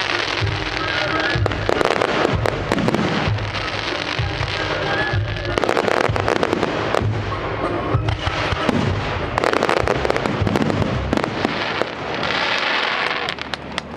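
Fireworks display: rapid crackling and sharp bangs of shells going off over a musical soundtrack with a steady low beat. The bursts come in dense clusters, heaviest about two, six and ten seconds in.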